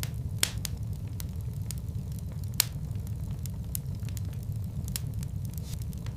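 Fireplace fire crackling: a steady low rumble with scattered sharp pops, two louder ones about half a second and two and a half seconds in.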